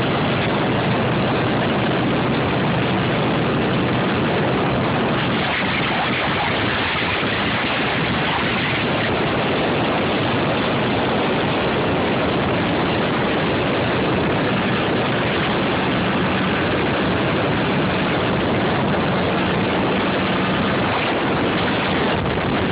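Motorcycle engines running steadily under a constant noisy rush, with a faint steady low engine note.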